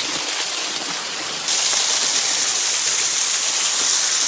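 Waterfall rushing as a steady hiss. About a second and a half in, a louder, high, steady hiss joins suddenly and holds.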